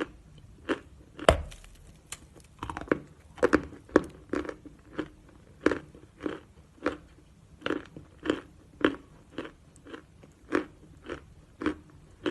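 A person chewing natural chalk close to the microphone: dry crunches at an even pace of about two a second, with one louder crunch about a second in.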